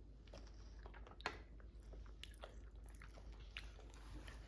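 Popping candy crackling in a toddler's mouth: faint, irregular tiny pops, with one sharper pop about a second in.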